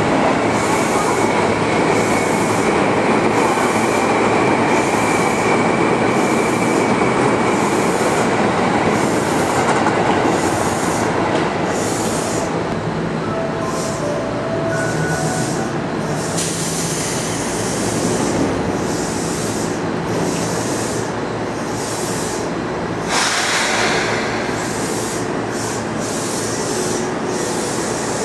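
Seibu 2000-series electric train running, first rolling through with a steady wheel squeal that fades over about ten seconds. Then it stands at the platform, and about 23 seconds in a sudden burst, most likely its doors shutting, is heard before it begins to pull away.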